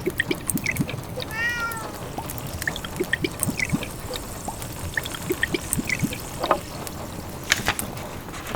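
A cat meows once, about a second and a half in, a short call that rises and falls in pitch. Underneath, a fireplace wood fire crackles with scattered small pops.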